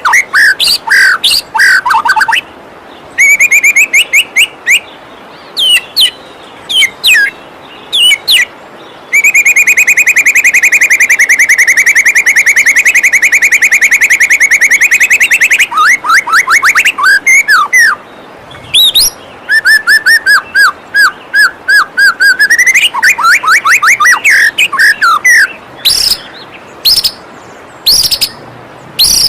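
White-rumped shama (murai batu) singing, a rapid string of whistled notes and chattering phrases, with one long, fast trill lasting about six seconds in the middle. It sings over a steady rush of flowing waterfall water.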